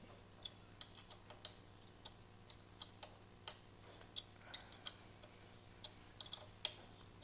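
Irregular sharp metallic clicks, two or three a second with a few quick clusters, from a hand tool working a fastener on a motorcycle's rearset bracket. A faint steady hum sits underneath.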